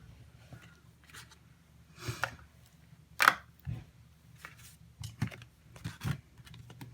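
Irregular clicks, taps and short rustles of hands handling cardstock and small pieces of double-sided adhesive tape, with a louder rustle about three seconds in.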